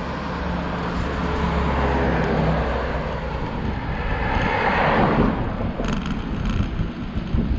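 A car drives past on the road alongside, its noise swelling to a peak about five seconds in and then fading.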